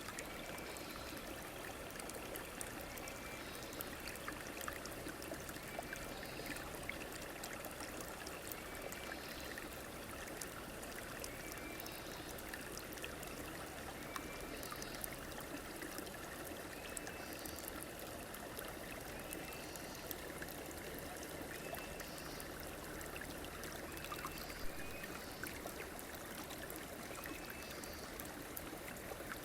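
Stream water running steadily over a shallow bed, with faint short high chirps repeating every couple of seconds.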